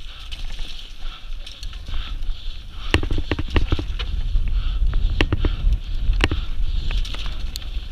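Steady rumbling noise, with a run of sharp knocks and clatters from about three seconds in.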